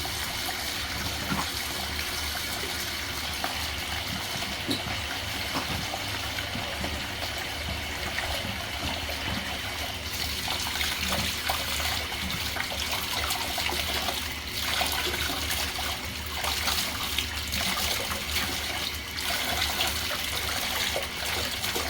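Tap water running and splashing steadily while a Bissell PowerEdge Pet stick vacuum's filter cup and foam filter pad are rinsed clean under it.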